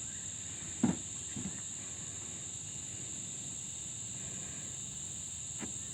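A steady high-pitched whine, with a few soft clicks about a second in and again near the end.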